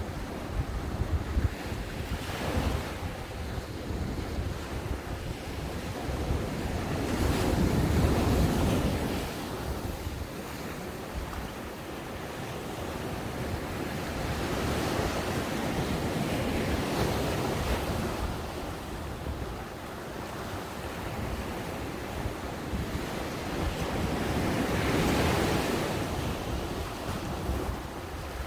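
Ocean waves breaking and washing up onto a beach, a steady wash that swells and fades in slow surges every several seconds, the biggest about eight seconds in.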